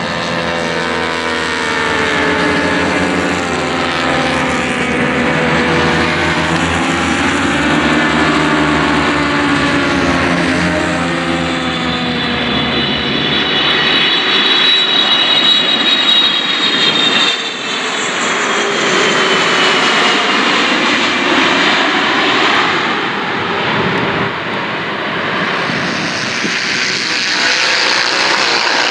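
A jet aircraft passing low overhead: a long, loud engine rumble whose tones slide slowly down in pitch, with a high whine through the middle and the deep rumble fading about halfway through.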